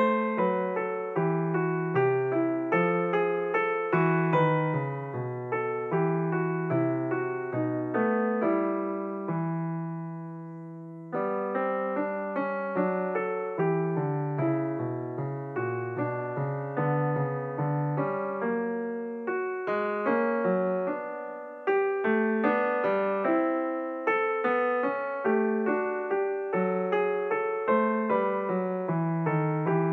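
Background piano music: a steady flow of struck notes and chords, with one chord left to ring out and fade about ten seconds in before the playing resumes.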